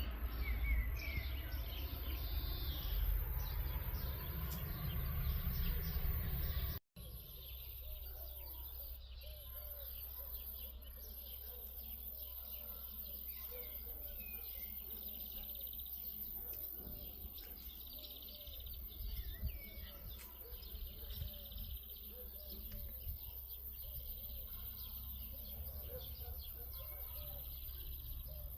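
Small birds chirping and calling in many short notes. For the first seven seconds a low rumble lies under them, until a sudden break; after that the chirping goes on over a quieter steady background.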